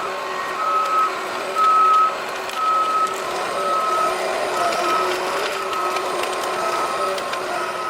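Reversing alarm on a John Deere forwarder beeping about once a second, each beep a short single high tone, over the machine's running engine.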